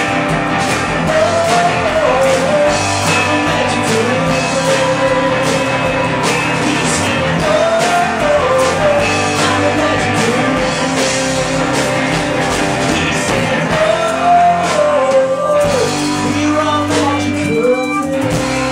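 Live indie rock band playing, with guitar and a sung melody line over the band. The deep bass drops away about sixteen seconds in.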